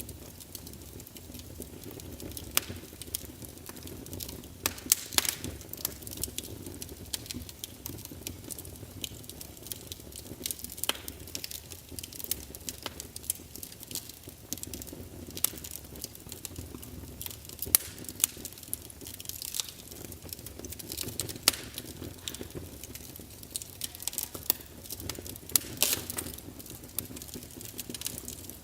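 Wood fire burning in a fireplace, logs crackling with irregular sharp pops, a few louder snaps among them, over a low steady rush of flame.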